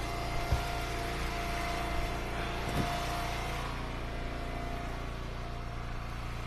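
Wood splitter's small gas engine running steadily, with two faint knocks, about half a second in and near three seconds in.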